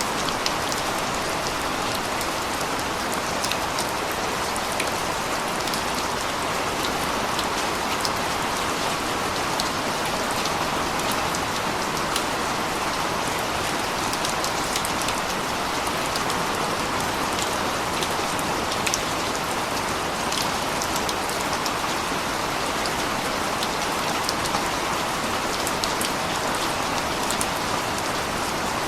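Steady rain: an even hiss with many small, scattered drop ticks, keeping the same level all the way through.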